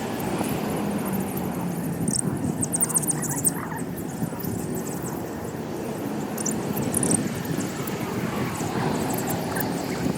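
Small birds chirping in short high-pitched bursts, heard over a steady low rumbling noise.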